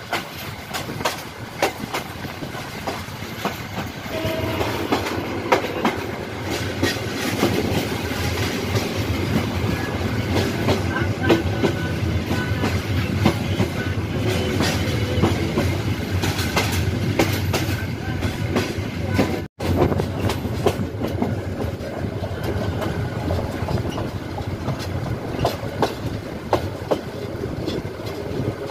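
Passenger train running along the track, heard from aboard: a steady rumble of the carriages with the wheels clicking over rail joints. The sound cuts out for an instant about two-thirds of the way through.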